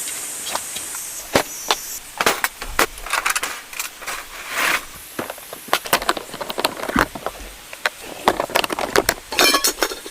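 Objects being handled at close range: an irregular run of sharp knocks, clicks and light clinks, with brief rustling about three to five seconds in and a quick patter of ticks near the end.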